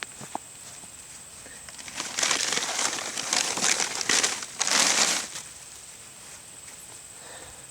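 Rustling and crinkling in a run of bursts lasting about three seconds, from hands digging through soil and pulled potato plants to uncover potatoes.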